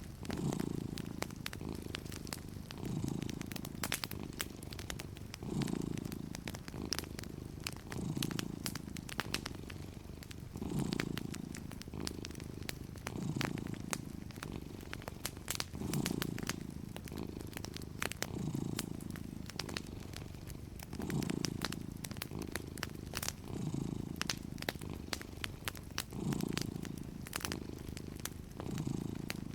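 A cat purring steadily, the purr swelling and fading about every two and a half seconds with each breath in and out. Fireplace crackles pop sharply and irregularly over it.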